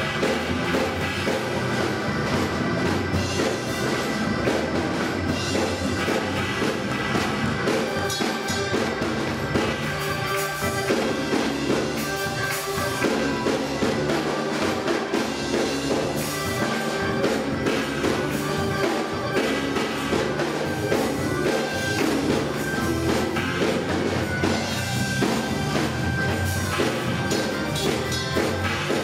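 Live gospel music from a church band with a drum kit and a bass line, played at a steady tempo.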